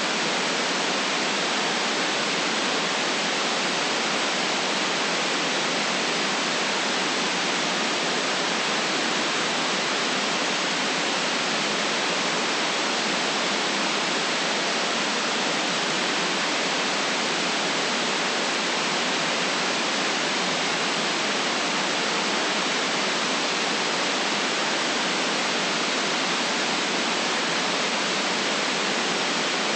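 Steady, unchanging white noise hiss with the deep bass cut away.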